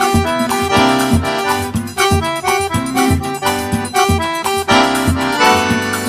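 Accordion-led music of the kind played for a festa junina quadrilha, with held and moving melody notes over a steady beat.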